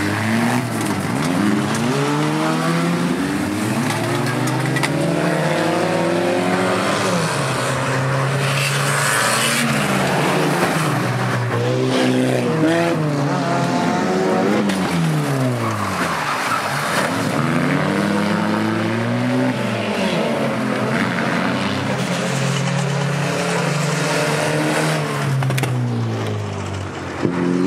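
Several banger racing cars' engines revving hard together, their pitch rising and falling over and over as the cars accelerate and back off.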